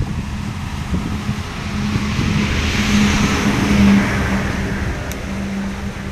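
An engine passing close by: a steady hum with a rushing sound that grows louder toward the middle and then fades, over wind buffeting the microphone.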